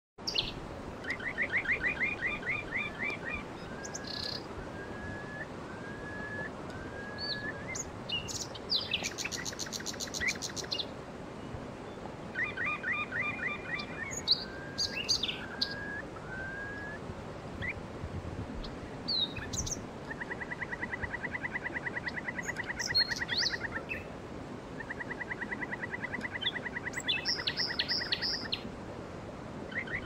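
Songbirds singing in varied phrases: short repeated trills, single whistled notes and a fast high trill, with two long, even trills of about three seconds each in the second half, over a steady soft background hiss.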